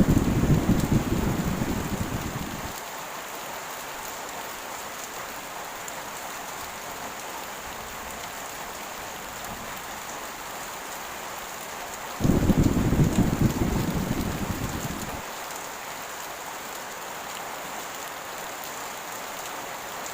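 Heavy rain falling steadily, with two rolls of thunder: one at the very start and one about twelve seconds in, each breaking suddenly as a low rumble and dying away over about three seconds. The thunder is the loudest sound.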